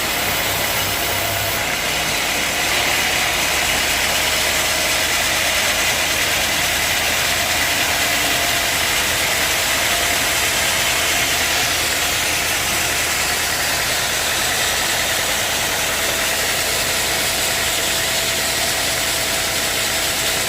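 Sawmill saw running steadily and loudly, a dense machine noise with a high, hissing edge, as it works through a large redwood log. The low hum drops away about a second and a half in, and the sound then stays even.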